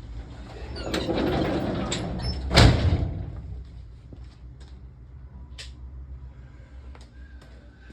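A garage door being pulled shut: a rolling rumble lasting about two seconds that ends in a loud bang as it closes, followed by a few light clicks.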